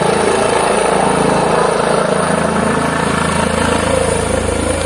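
Medical helicopter's rotor and turbine running loud and steady as it comes in to land.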